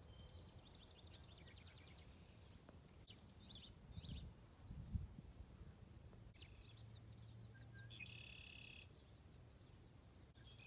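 Faint small birds chirping and trilling outdoors, with a rapid trill in the first moments and a buzzy call near the end. Two brief low rumbles come around four and five seconds in.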